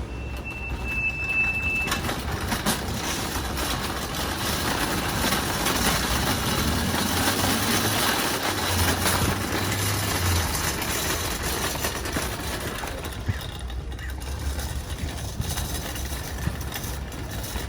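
Steady rushing noise and low hum of a moving vehicle, with a short high beep about a second in.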